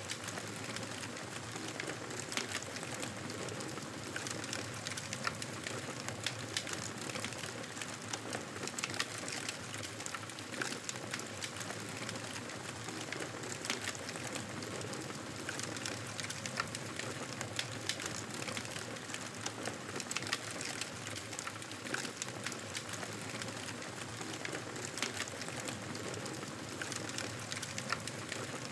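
Campfire crackling: a steady hiss with many irregular sharp pops and snaps.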